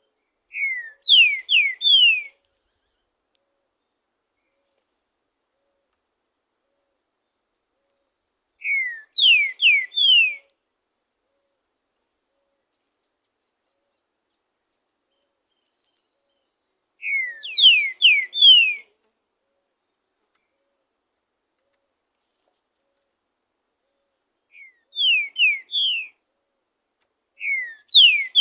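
Green-winged saltator (trinca-ferro) singing: short phrases of three or four loud whistled notes, each sliding down in pitch. Five phrases come several seconds apart, with silence between them.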